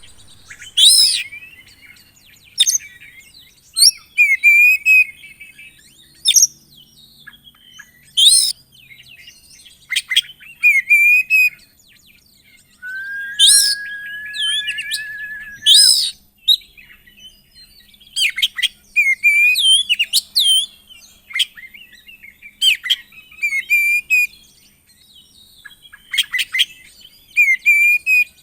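Oriental magpie-robin (kacer) singing loudly: phrases of sharp sweeping whistles and quick warbled notes every second or two, with one long, level whistled note a little under halfway through.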